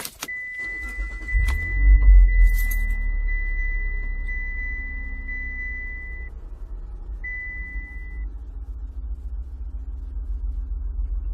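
Car engine starting: a few clicks, then the engine catches about two seconds in and settles into a steady low idle. A high electronic warning chime pulses about once a second over it and stops about eight seconds in.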